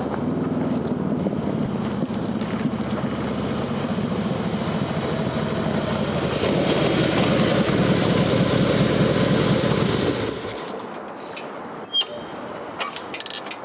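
A motor vehicle's engine running and growing louder, then cutting off abruptly about ten seconds in. A few sharp clicks follow.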